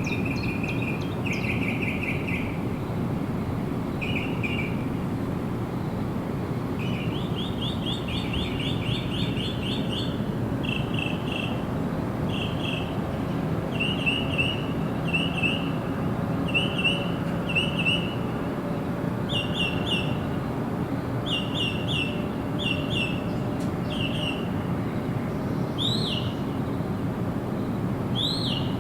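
Songbirds calling over a steady low background noise. Short chirping trills repeat about every second, with a longer trill partway through and two rising whistled notes near the end.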